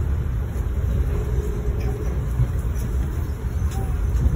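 Steady low rumble of a passenger train running at speed, heard from inside the coach, with a few faint clicks.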